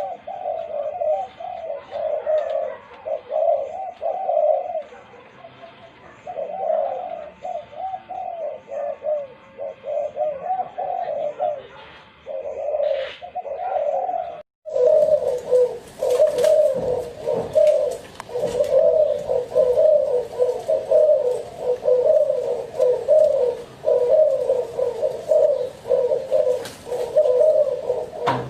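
Spotted doves cooing in a continuous run of low, pulsing coos. The coos break off for a moment about halfway, then carry on louder.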